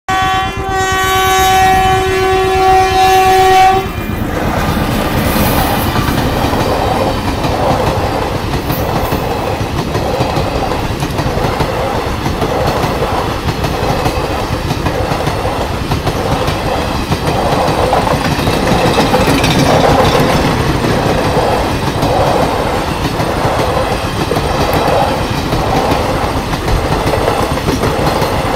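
A WAP-4 electric locomotive's horn sounds one long blast, held for about four seconds and cut off sharply. Then the express's coaches rattle past close by, their wheels clicking in a steady rhythm over the rail joints.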